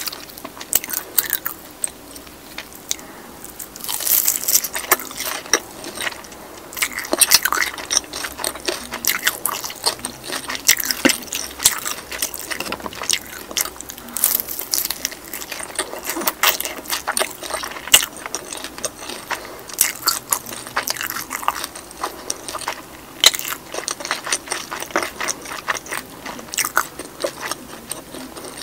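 Close-miked biting and chewing of a soy-sauce fried chicken drumstick: the crisp fried skin crunches and crackles in a steady, irregular run of small snaps as it is bitten and chewed.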